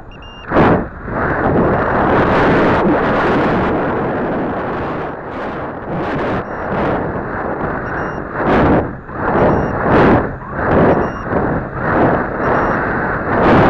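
Wind rushing over a model rocket's on-board camera in flight, buffeting in uneven gusts that swell and fade. A short, high electronic beep sounds several times through it.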